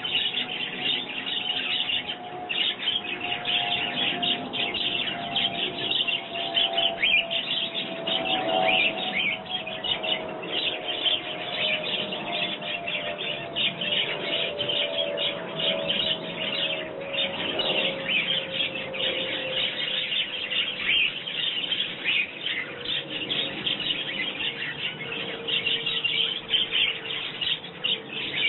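Garden birds chirping densely and without pause. Under them runs a faint steady hum that falls slowly in pitch.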